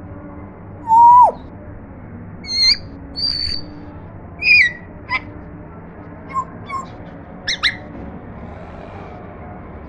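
African grey parrot whistling and calling: one loud whistle about a second in that drops sharply at its end, followed by a string of short, higher chirps and whistles that grow softer toward the end.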